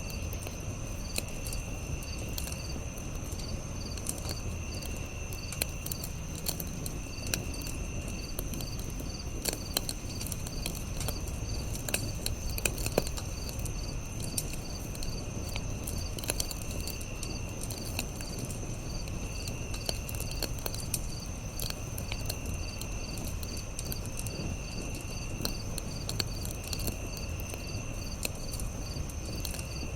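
Campfire crackling with scattered sharp pops over a low rumble, against a steady background of insects trilling: one continuous high trill, a fast pulsing chirp, and a shorter call that repeats every two to three seconds.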